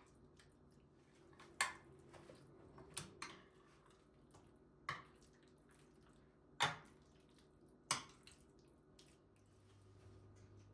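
Kitchen dishes and utensils clinking and knocking now and then during food preparation: about six sharp, short clicks spread over the stretch, two of them close together about three seconds in.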